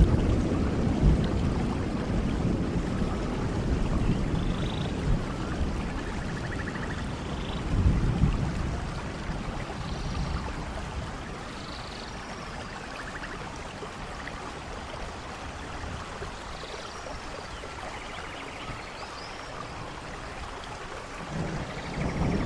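Steady rainfall with a low roll of thunder that dies away over the first several seconds, rumbles up again briefly, then swells once more near the end. Faint short high chirps sound now and then over the rain.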